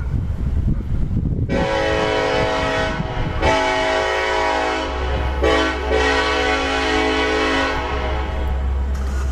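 Diesel freight locomotive's multi-chime air horn sounding a chord in several blasts, the last one long, starting about a second and a half in. Before it there is wind rumble on the microphone, and under the later blasts a steady low rumble from the passing train.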